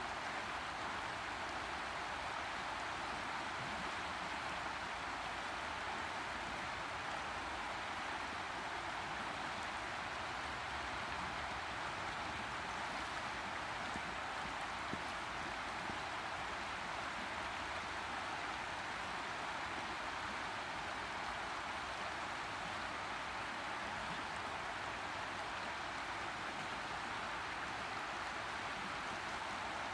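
Boise River flowing: a steady, even rush of moving water with no breaks.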